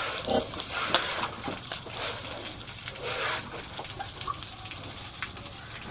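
Pigs feeding, with scattered knocks and wet, splashy feed noises and an occasional short grunt.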